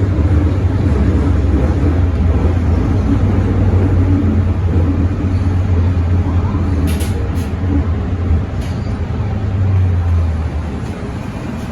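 Running noise of an MTR Metro Cammell M-Train electric multiple unit on the move: a steady low hum and rumble with a few sharp clicks in the middle. The hum fades out near the end as the overall sound eases off.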